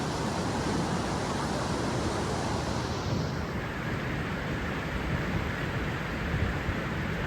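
Steady rush of river rapids, an even roar of fast water whose higher hiss softens a little about three seconds in.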